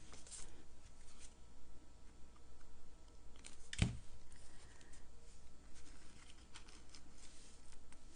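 Quiet handling of paper die-cut pieces on a craft table, light rustles and small taps, with one sharp knock about four seconds in.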